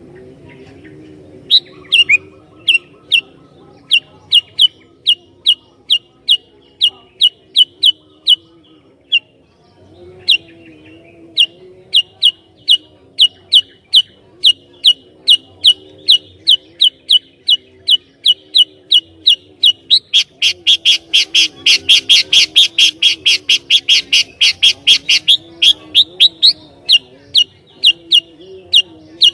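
Sooty-headed bulbul (kutilang) calling in a long series of short, sharp, high chirps, about two to three a second. It pauses briefly a third of the way in, and about two-thirds of the way through the chirps come faster and louder for several seconds.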